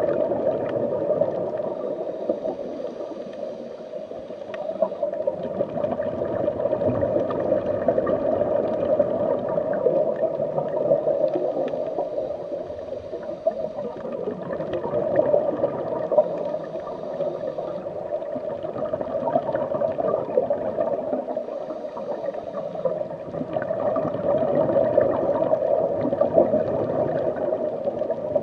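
Continuous bubbling and gurgling of aquarium aeration, air rising through the water from an air-driven sponge filter, swelling and easing every few seconds.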